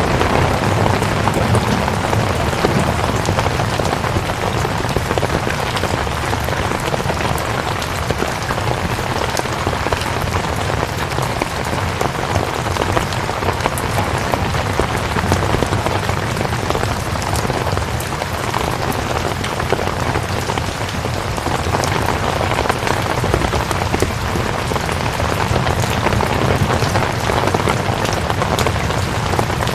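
Steady rain falling: a dense, even hiss with scattered individual drop ticks, constant in level throughout.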